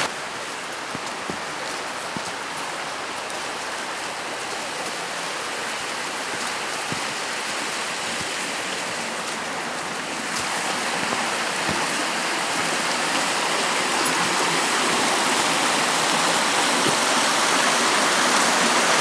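Small waterfall in a mountain stream: a steady rush of falling water that grows gradually louder.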